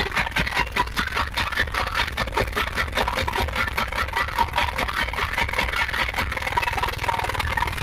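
Car subwoofers playing deep bass, with a rapid crackling rattle over the top.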